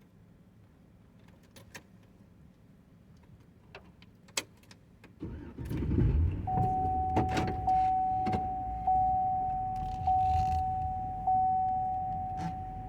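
A few light clicks, then a vehicle engine starts about five seconds in and runs. A steady warning chime follows, struck afresh about every second and fading between strikes.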